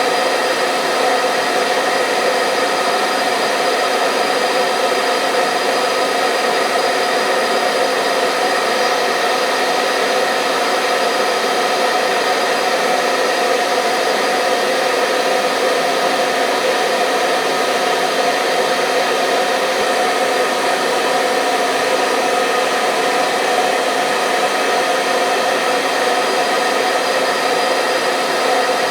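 Hair dryer running steadily: an even blowing hiss with a constant motor whine, holding the same pitch and level throughout.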